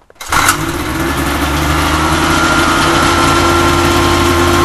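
Cuyuna 440 two-stroke twin snowmobile engine starting up about a quarter second in, then running steadily during a run-up test.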